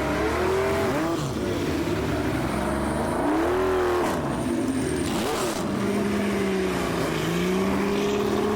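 Car engine revving up and down several times, then holding a steady higher pitch for the last few seconds.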